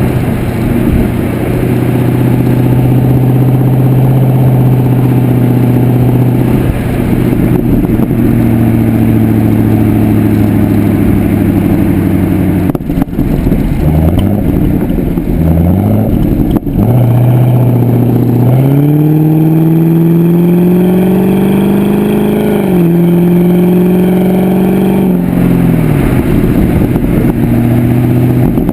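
Pontiac G8 GXP's LS3 V8 sounding through a Corsa exhaust, first holding a steady drone. Around the middle it swings up and down in several quick revs, then pulls up in pitch through two rising runs with a shift-like drop between, and falls back to a steady drone near the end.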